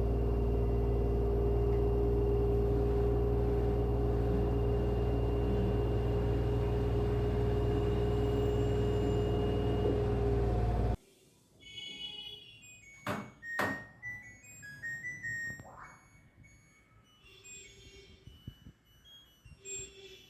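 LG FHV1408ZWP front-loading washing machine on its spin cycle at 1000 rpm: a steady hum with a whine, which cuts off abruptly about eleven seconds in. After it comes a much quieter stretch with a few sharp knocks and short faint chirps.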